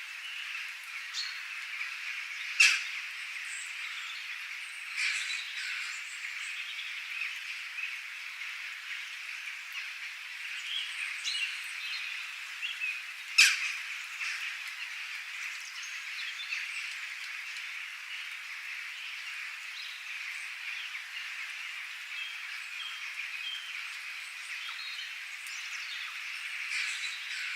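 Dense, steady chorus of calling frogs, with scattered bird chirps over it and two sharp, loud calls, about 3 seconds and 13 seconds in.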